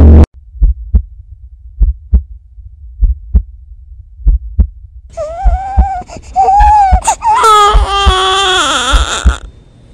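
A slow heartbeat, low paired thumps in a lub-dub rhythm, then from about five seconds in a baby starts crying over it in wavering wails while the heartbeat goes on.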